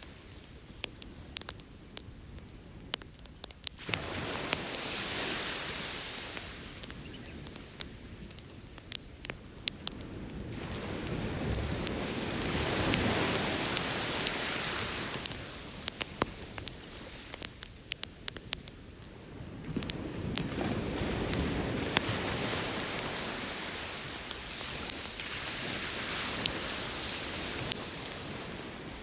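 Campfire crackling with frequent sharp pops, over ocean waves that wash up on the beach and recede, swelling four times.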